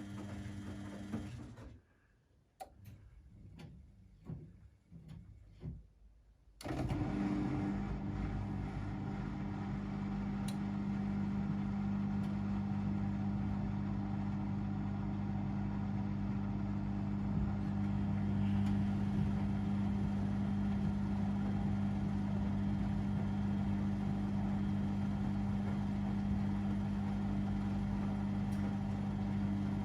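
Domestic laundry machine running with a steady motor hum. The hum cuts out suddenly about a second and a half in, a few light ticks follow, and the hum starts up again abruptly after about seven seconds and stays steady.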